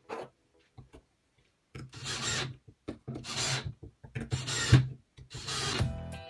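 A few light clicks, then four slow rasping strokes of a hand file across a workpiece, about one a second.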